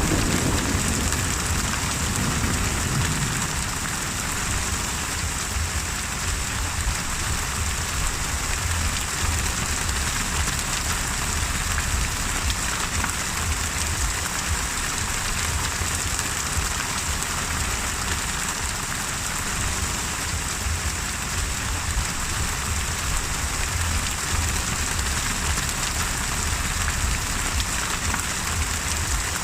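Steady heavy rain in a thunderstorm, with a rumble of thunder dying away in the first few seconds.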